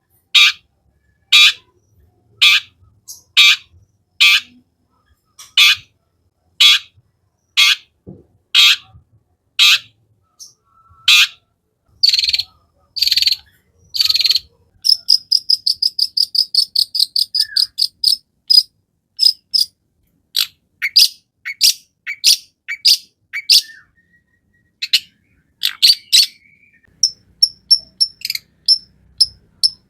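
Long-tailed shrike (cendet) singing loudly: harsh scolding calls about once a second, then a fast run of high clear notes about halfway through, followed by a mix of harsh and clear notes.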